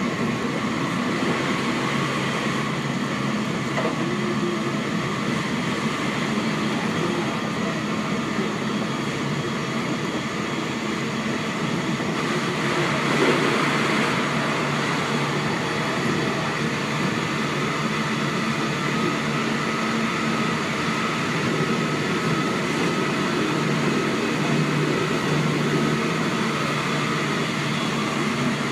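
Interior running sound of a Seibu 6000 series electric train at speed between stations: steady rolling noise of wheels on rail with faint steady tones above it, swelling briefly about halfway through.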